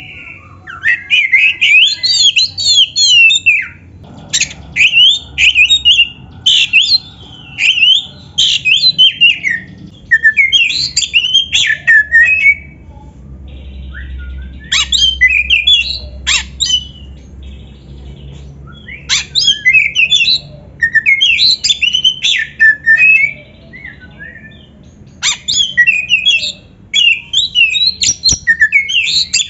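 Oriental magpie-robin (kacer) singing: groups of rapid, varied whistled notes sliding up and down in pitch, separated by pauses of a second or two.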